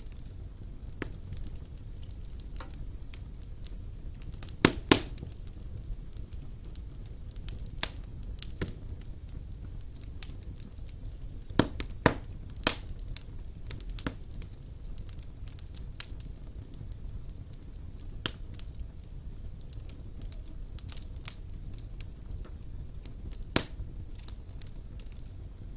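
Wood fire burning in a fireplace: a steady low rumble of the flames with irregular sharp crackles and pops from the burning logs, the loudest cracks clustered about five and twelve seconds in and one more near the end.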